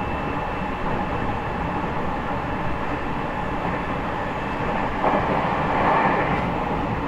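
Running noise heard inside the motor car of an E501 series electric train at speed: a steady rumble of wheels on rail, with a louder swell about five seconds in.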